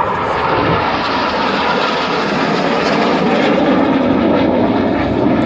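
Jet noise from BAE Hawk T1 aircraft flying past: a loud, steady rushing sound that builds slightly.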